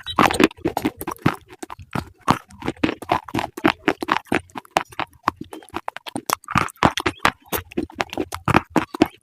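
Crunchy food being bitten and chewed close to the microphone: rapid, irregular crisp crunches, several a second.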